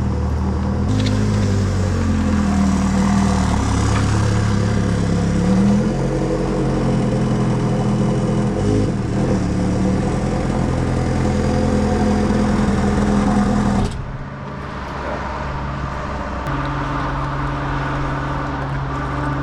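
Ferrari 360 Spider's V8 with a Tubi exhaust, revved repeatedly, its pitch rising and falling. About fourteen seconds in, the sound drops suddenly to quieter, steady running.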